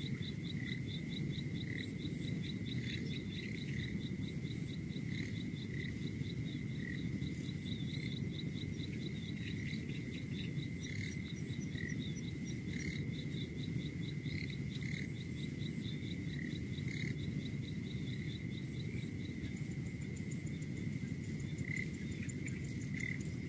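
A chorus of calling insects: a steady high trill with a rapid, evenly pulsing chirp above it, over a steady low rumble.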